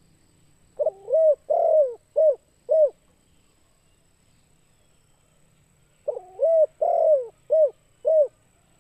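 Spotted dove (tekukur) cooing: two song phrases about three seconds apart. Each phrase opens with a rising-and-falling coo, then a longer coo, and ends with two short clipped coos.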